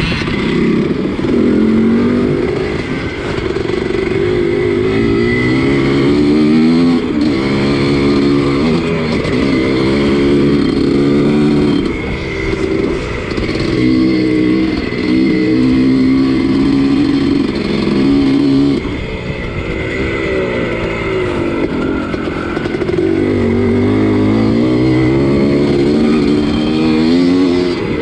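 Two-stroke single-cylinder engine of a 1983 Husqvarna 250CR motocross bike racing on a dirt track, its note climbing and dropping back again and again as the throttle is worked.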